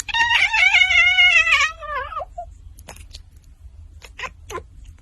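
A cat's single long meow, about two seconds, wavering and falling in pitch at the end, followed by a few faint clicks.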